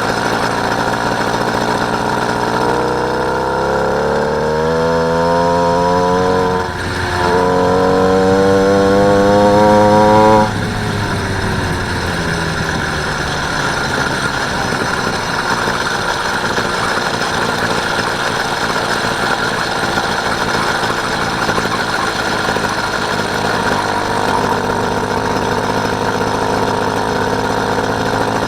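Motorised bicycle's small engine running under way. About three seconds in it revs up with a rising whine, dips for a moment, rises again, then drops off sharply about ten seconds in and goes back to steady running.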